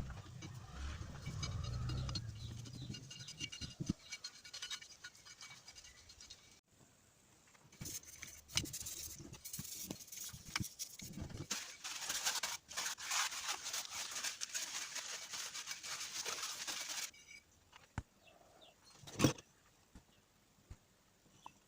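Hand scrubbing and scraping on a starter-motor part: a dense run of quick scratchy strokes through the middle, with a low rumble at the start and a few sharp knocks near the end.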